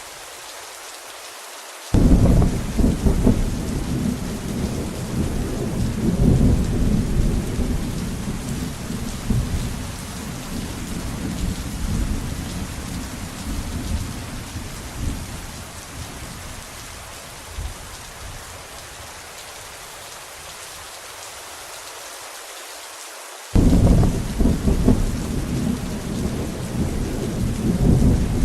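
Steady rain with two loud thunderclaps. The first breaks suddenly about two seconds in and rumbles on, slowly dying away over some fifteen seconds; the second breaks just as suddenly near the end.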